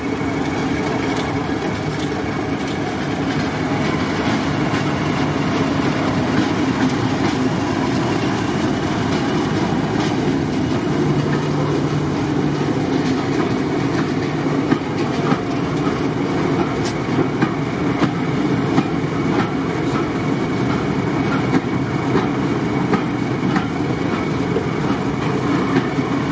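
Train running steadily along the track: a continuous rumble with the clickety-clack of wheels over rail joints, the clicks coming more often in the second half.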